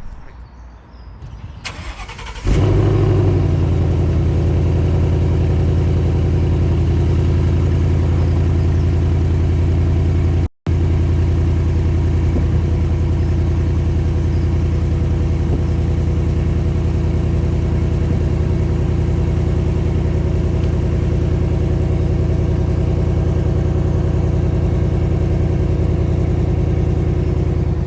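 Car engine starting about two and a half seconds in, then idling steadily. The sound cuts out for an instant about a third of the way through.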